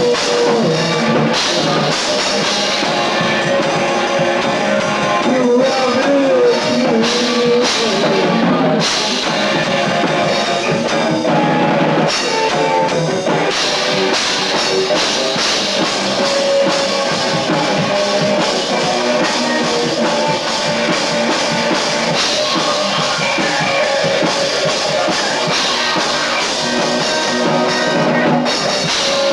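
Lo-fi rock band playing: drum kit keeping a steady beat under guitar, with a bending melodic line about six seconds in.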